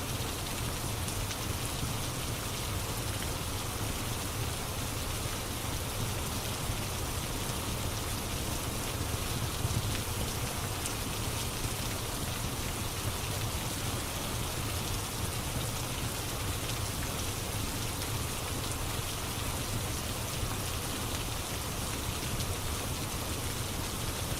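Steady rain ambience: an even hiss with a low rumble underneath and faint scattered ticks.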